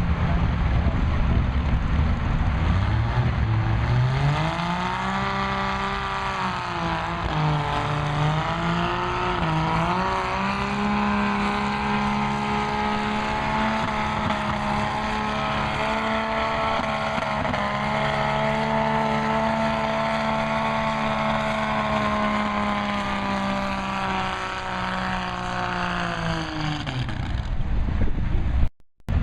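Farm stock pulling tractor's engine revving up a few seconds in, then running at a steady high pitch under full load during a pull, with a brief dip in revs around eight seconds in. Near the end the revs fall away and the sound cuts off abruptly for a moment.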